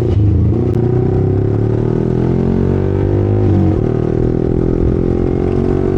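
Yamaha R15's 155 cc single-cylinder engine running at low speed in traffic, its pitch rising gradually, dipping briefly a little past halfway, then climbing again.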